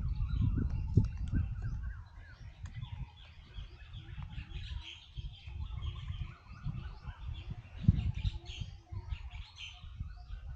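Many small birds chirping and twittering at once in short, overlapping calls, over a low rumble that is loudest in the first two seconds, with a sharp knock about eight seconds in.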